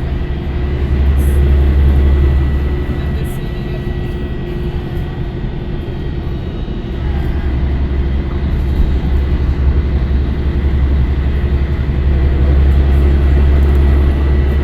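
Scania L113CRL bus's 11-litre six-cylinder diesel engine running with a deep drone that swells about a second in and again near the end, with a faint steady high whine above it.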